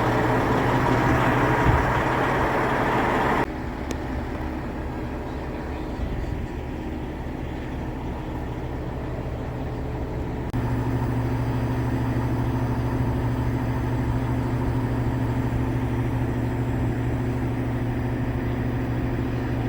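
Heavy diesel engine of a mobile crane idling, a steady low drone. The sound drops abruptly about three and a half seconds in and comes back up about ten seconds in.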